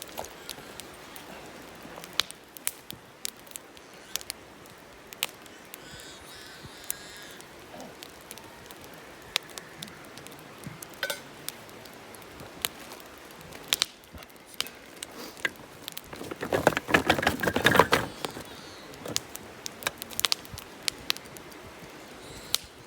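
Wood campfire crackling, with irregular sharp pops of burning wood, and a louder burst of rapid crackling clicks lasting about a second and a half near the end.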